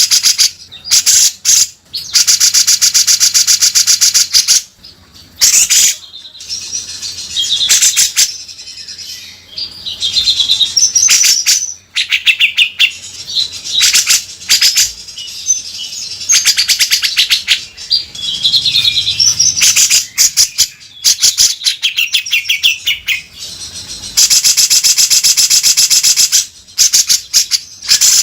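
Grey-cheeked bulbul (cucak jenggot) singing without pause, long harsh rasping buzzes of a few seconds each alternating with short whistled, warbling phrases.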